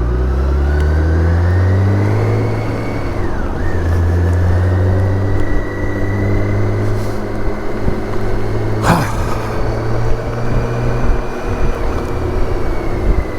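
BMW K1600 GTL's inline six-cylinder engine accelerating with the revs rising, a quick gear change about three and a half seconds in, then running at a steady speed over wind and road noise. A single sharp click about nine seconds in.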